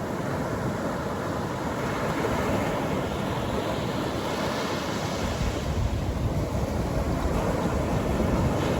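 Atlantic surf breaking and washing up the beach in a continuous wash of noise, with the hiss of a breaking wave swelling a little before midway and a low rumble growing in the second half.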